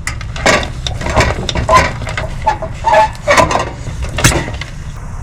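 Camp cookware being handled: a metal pot and utensils knocked and set down, a quick string of clinks and knocks, over a steady low rumble.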